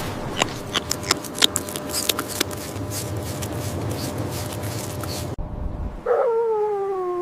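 Animal field recording: about five seconds of noisy background with scattered clicks and rustles, cut off suddenly, then near the end a single long howl that starts just after the cut and sinks slowly in pitch.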